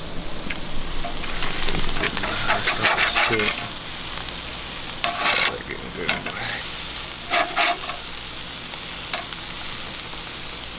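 Striped bass fillets sizzling as they fry in a pan, with several short bursts of a utensil scraping and stirring against it.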